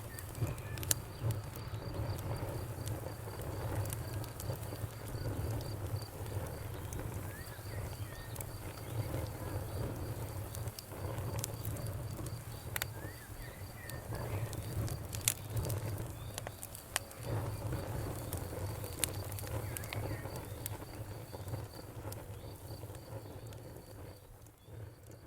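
Wood fire crackling with scattered sharp pops over a low steady rumble, while a cricket chirps in a fast even pulse. The whole sound fades down near the end.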